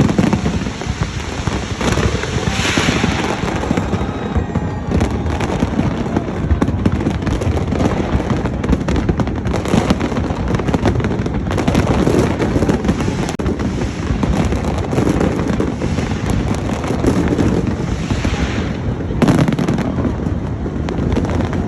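Fireworks display: many shells bursting in quick succession, a dense run of bangs and crackle with no letup.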